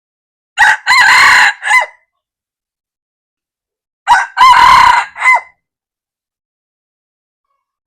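A red junglefowl cock crowing twice, about three and a half seconds apart; each crow is a short opening note, a longer held middle, and a brief end note that falls in pitch.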